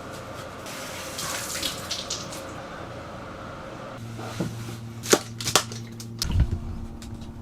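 Water running or splashing for the first half. After that comes a steady low hum, with a few sharp clicks and a low thump near the end.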